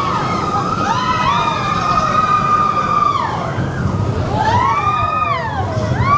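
Big Thunder Mountain Railroad mine-train roller coaster running on its track: a loud, high squeal from the wheels that holds steady for about three seconds, then slides down and up in pitch in several overlapping arcs, over a low rumble.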